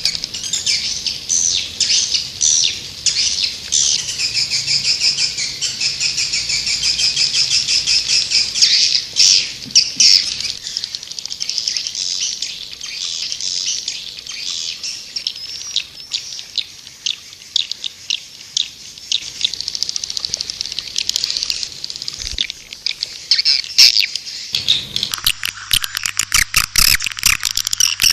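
White-nest swiftlet calls: dense, fast, high twittering chirps. Played as a lure call to attract swiftlets to a nesting house. Near the end the pattern changes to sharper, rapid clicking trills.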